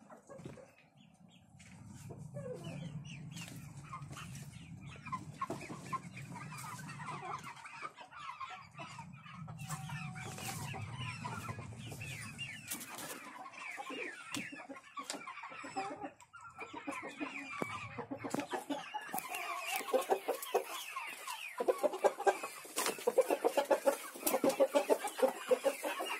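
A flock of chickens clucking and calling, many short calls overlapping. A low hum runs under the calls for stretches in the first half, and a run of sharp clicks or taps comes through in the last several seconds.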